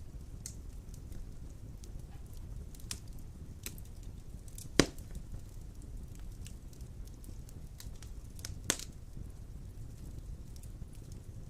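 Wood fire burning in a stone fireplace: a steady low rumble with scattered small crackles, and two sharp pops from the burning logs, the louder one about five seconds in and another near nine seconds.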